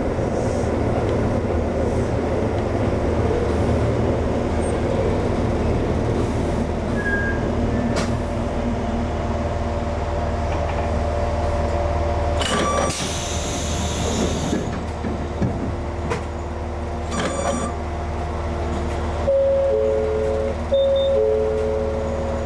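Ex-Tokyu 7000-series electric train running, with a steady low rumble and droning tones that fade away a little past halfway. A burst of air hiss follows, then two brief ringing clanks, and near the end an alternating two-note tone.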